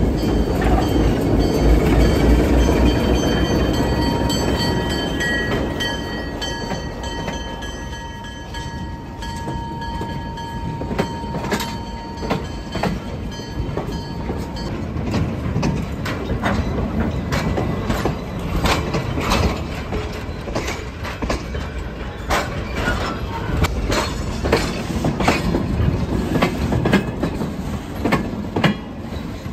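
An ALCO RS-1 diesel locomotive and its train rolling slowly past. The locomotive's engine rumbles deeply at first, then a thin steady squeal from the wheels, and from about ten seconds on the passing cars' wheels click irregularly over the rail joints.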